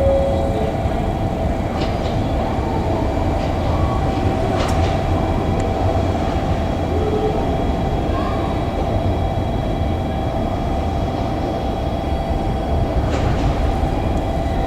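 JR Kyushu 787 series electric train running past: a steady, loud rumble of wheels on rail, with a few sharp clicks.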